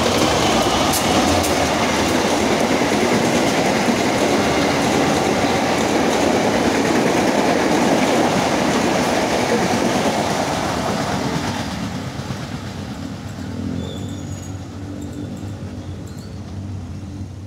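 Diesel-hauled passenger train passing close by, with the locomotive and then the coaches rolling over the rails. It stays loud for about the first eleven seconds, then fades as the last coaches move away.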